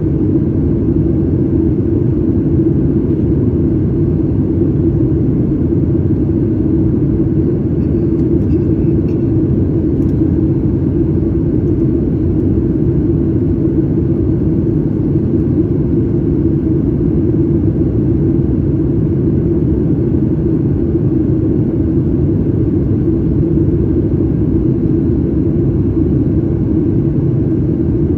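Steady low rumble of a Boeing 737 MAX 8's CFM LEAP-1B jet engines, heard inside the passenger cabin.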